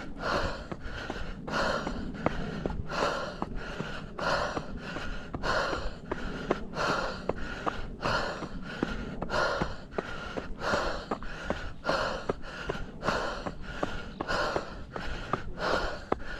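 Heavy, rhythmic open-mouth breathing of a runner working hard up a steep trail, about one and a half breaths a second. Light footfalls click between the breaths.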